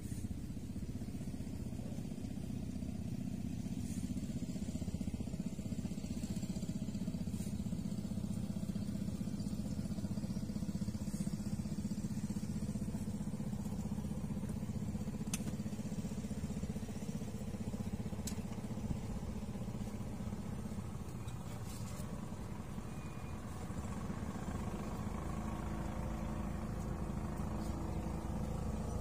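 Small boat's engine running steadily out on the water, a low even drone, with a few faint sharp ticks spread through it. Near the end the engine note gets a little fuller and higher.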